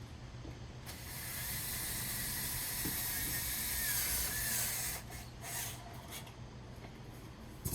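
A power drill driving a screw into a metal drawer-slide track, running steadily for about four seconds starting about a second in, its pitch dipping slightly near the end, followed by a few light clicks.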